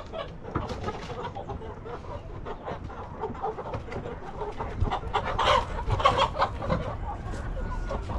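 Chickens clucking in a run of short calls, busiest about five to six and a half seconds in.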